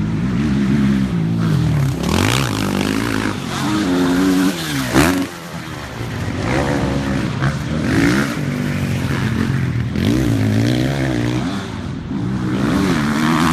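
Motocross bike engines revving hard, the pitch climbing and dropping again and again with throttle and gear changes, with one sharp crack about five seconds in.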